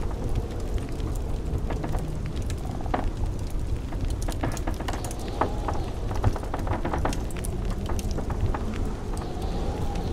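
Wood fire crackling with many irregular sharp pops over the steady low rumble of blizzard wind. A faint wind whistle rises and falls about halfway through and again near the end.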